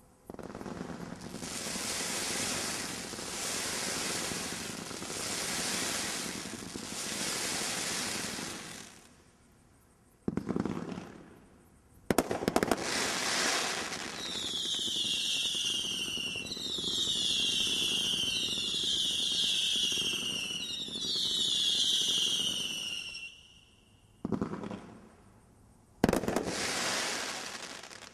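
Consumer fireworks going off. First come several pulsing swells of hissing, then sharp reports about ten and twelve seconds in. A run of repeated falling whistles follows, and two more reports come near the end.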